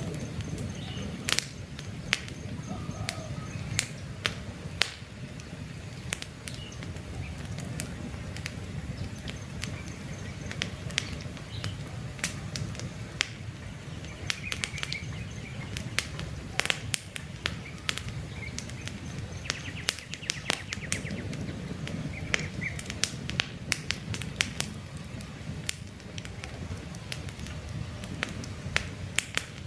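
Wood campfire crackling, with frequent sharp pops and snaps over a low steady rumble of burning. Small birds chirp faintly in the background, including a high, rapid repeated trill now and then.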